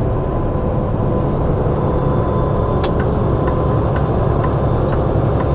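Steady drone of a loaded semi truck cruising at highway speed, heard from inside the cab: engine and tyre noise with a strong low rumble. From about halfway in, a faint regular ticking comes about twice a second.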